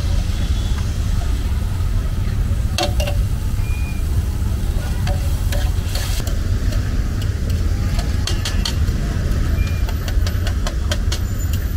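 Liver chunks frying on a large flat tawa, sizzling, with a metal spatula scraping and clicking against the pan, the clicks more frequent in the second half. Under it runs a steady low rumble, louder than the frying.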